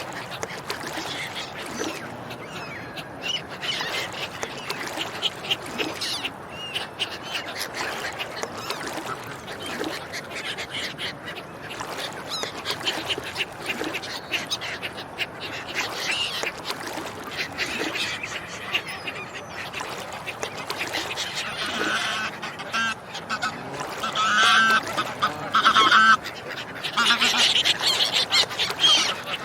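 A group of ducks quacking, with honking calls mixed in and many calls overlapping. The calls grow louder and more frequent in the last several seconds.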